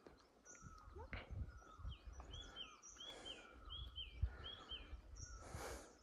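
Wild birds calling in forest: a run of short, quick chirps repeated in pairs through the middle, with a higher whistled note now and then. Underneath, dull footsteps on a dry dirt trail, the loudest near the middle.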